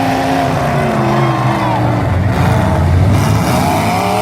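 Several vehicle engines running and revving together, their pitch rising and falling.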